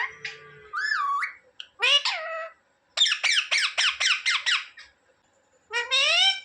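Indian ringneck parrot calling: a few short calls that slide in pitch, then a rapid run of sharp squawking notes about six a second, and a rising call near the end.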